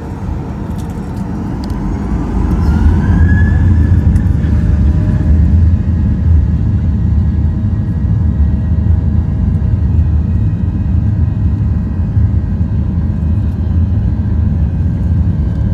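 Airliner jet engines spooling up for the takeoff roll, heard from inside the cabin: a heavy steady rumble with a whine that rises in pitch over the first few seconds and then holds steady as the noise grows louder.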